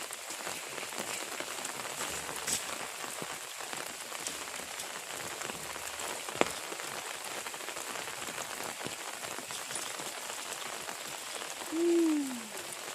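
Steady heavy rain falling on surfaces, with a single sharp click about six and a half seconds in. Near the end comes a short, loud sound that falls in pitch.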